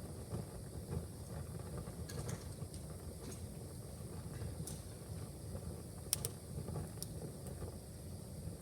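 Wood fire crackling in a fireplace: a steady low rumble of the flames with scattered sharp pops, the loudest a quick double pop about six seconds in.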